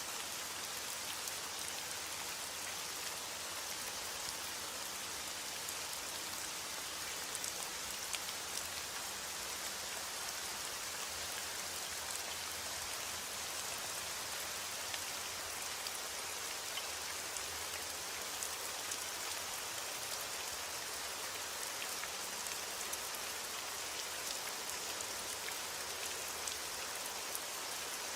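Steady rain falling, a dense hiss with many small drop ticks pattering on a surface; no thunder.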